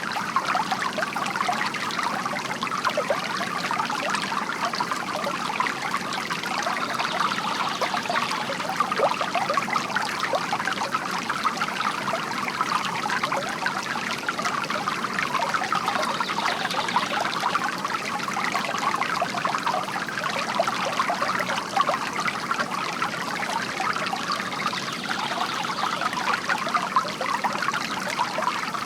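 Bamboo water fountain: a steady stream of water trickling and splashing from the spout into the water below.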